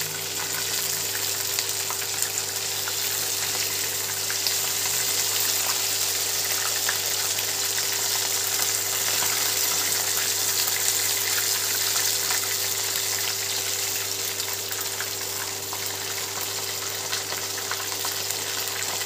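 Chicken drumsticks frying in hot oil in a kadai at high heat: continuous sizzling and crackling, with light scrapes and taps as they are turned with a spatula and fork. A steady low hum runs underneath.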